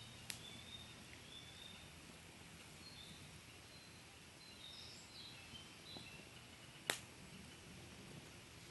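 Wood fire burning quietly in a Picogrill 498 fire pit, with two sharp crackling pops, one near the start and a louder one about seven seconds in. Faint high chirps come and go in the background.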